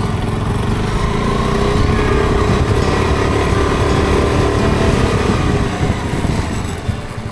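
KTM 390 Adventure's single-cylinder engine running under way, its pitch climbing from about a second in and easing off a little after five seconds.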